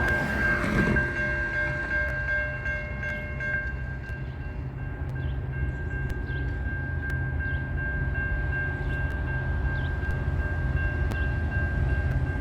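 A train running past with a heavy, steady low rumble. A chord of horn-like tones fades out in the first few seconds, and a steady high-pitched tone sounds over the rumble.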